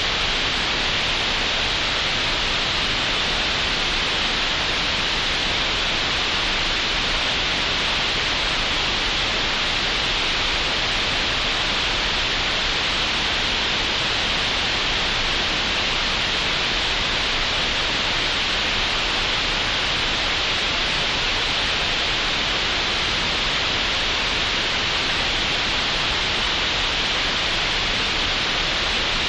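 Steady, even hiss of computer-generated "green noise" made in Audacity, strongest in the upper-middle range and with nothing above it.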